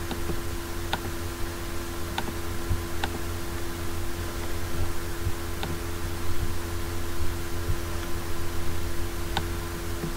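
Computer mouse clicking a handful of times, single sharp clicks a second or more apart, over a steady electrical hum and hiss.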